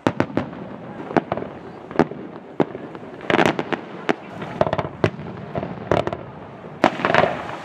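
Aerial firework shells bursting overhead: a string of sharp bangs, about one or two a second, with several coming in quick clusters.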